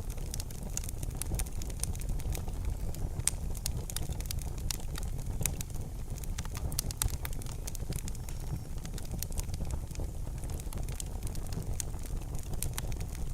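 Wood fire crackling in a fireplace: a quick, irregular scatter of sharp pops and snaps over a steady low rumble.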